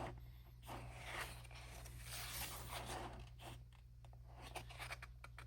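Paper pages of a photobook being turned and handled: a series of soft rustling swishes, with a few light clicks near the end.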